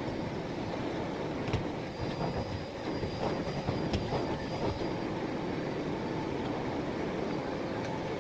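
Miele Blizzard CX1 bagless vacuum cleaner running steadily, with a few clicks and a faint high whine partway through.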